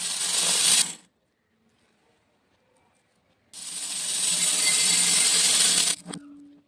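Small beads being poured in a dense rattling stream that stops about a second in; after a pause a second pour starts about three and a half seconds in and stops abruptly about two and a half seconds later.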